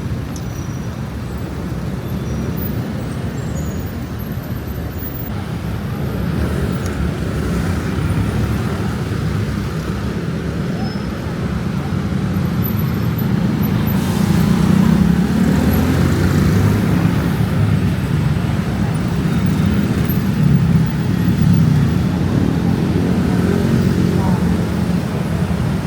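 Busy city street ambience: steady road traffic running, growing louder about halfway through, with voices of passers-by mixed in.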